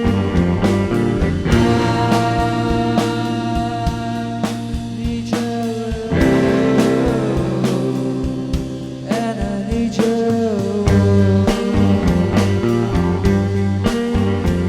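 A rock band playing live in a psychedelic blues-rock style: electric guitars with drums keeping a steady beat, the music changing chord about six seconds in.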